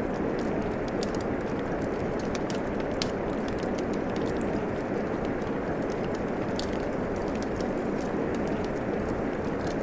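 Steady rain with a wood fire crackling: a continuous even rush of rainfall with sharp little pops and clicks from the fire scattered irregularly throughout.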